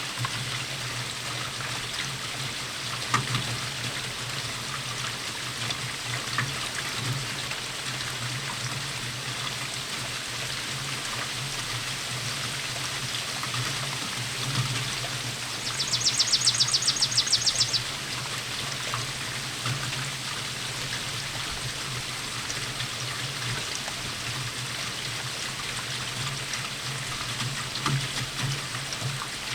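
Steady rainfall with water pouring and trickling and scattered louder drips. Just past the middle, a high rapid trill of about ten pulses a second lasts about two seconds.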